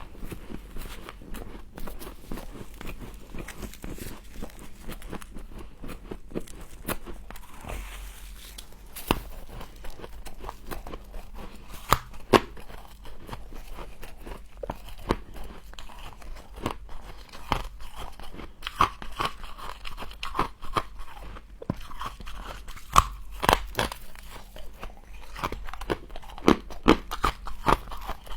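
Close-up crunching of frost being bitten and chewed, a run of irregular sharp crunches that grow denser and louder in the second half.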